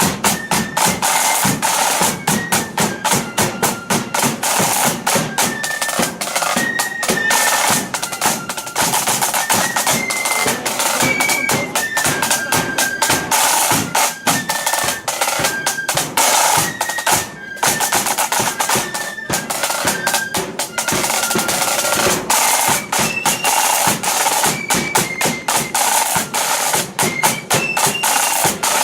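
Blood-and-thunder flute band playing a march: a stepping melody on flutes over rapid, dense snare drumming and bass drum.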